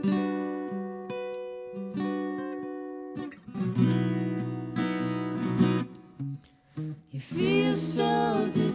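A band's song opening on guitar: single picked notes ringing out, then fuller strummed chords from about three seconds in. A voice comes in near the end.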